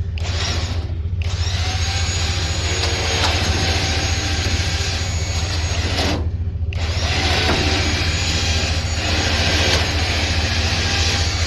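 Electric trailer winch motor whirring under load in two long runs, with a short pause about six seconds in, over the steady low hum of an idling engine.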